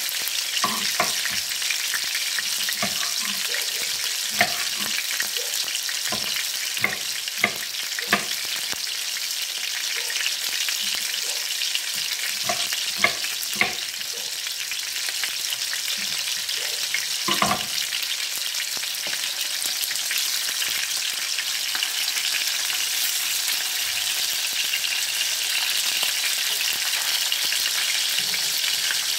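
Meatballs frying in oil in a nonstick skillet, a steady sizzle. Over it come irregular knocks of a knife chopping on a wooden cutting board, mostly in the first half and once more past the middle.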